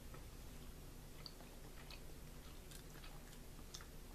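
Faint chewing of soft chocolate mini pancakes, with scattered small mouth clicks over a low steady room hum.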